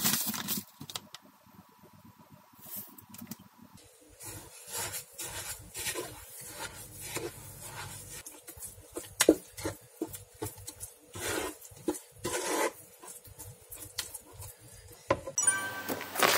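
Wooden spatula stirring chili powder into glutinous rice porridge in a nonstick frying pan: irregular scraping and rubbing strokes against the pan. Near the end, wet rustling of salted napa cabbage leaves.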